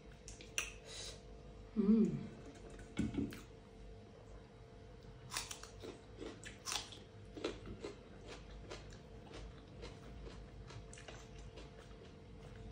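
Close-up chewing and lip-smacking of a person eating maize dhido and achar by hand, with soft crunches and a louder low sound about two seconds in.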